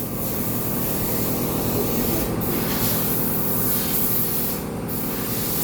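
Steady spraying hiss with a low hum beneath it.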